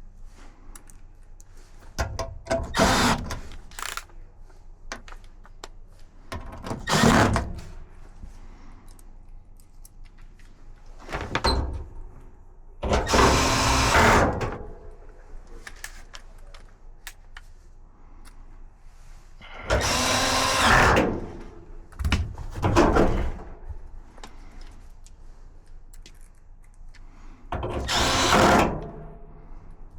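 A power drill running in about seven short bursts of one to two seconds each, with quiet gaps between them.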